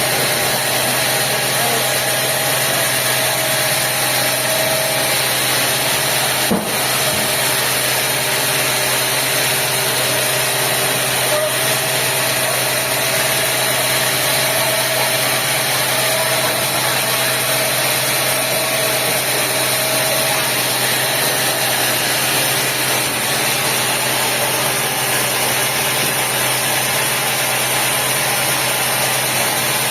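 Sawmill machinery running steadily, a constant mechanical noise with a faint steady whine, and a single brief knock about six and a half seconds in.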